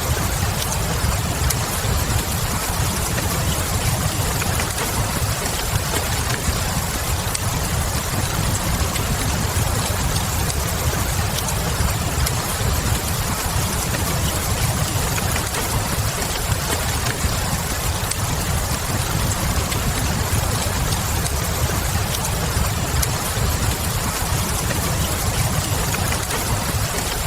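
Steady rain hiss over a low, even rumble, with scattered small crackles and pops from a wood fire.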